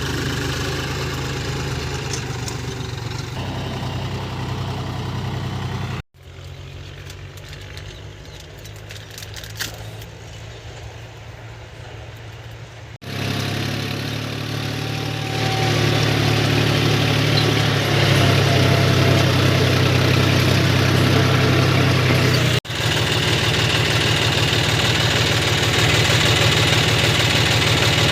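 John Deere 5050D tractor's three-cylinder diesel engine running steadily. It drops abruptly to a quieter level about 6 seconds in, jumps back about 13 seconds in, and gets louder again a couple of seconds later.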